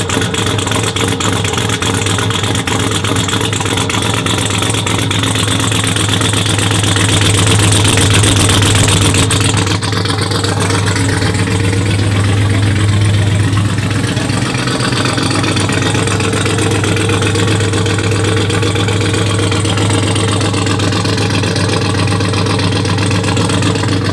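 Car engine idling with a steady low drone, swelling slightly about eight seconds in.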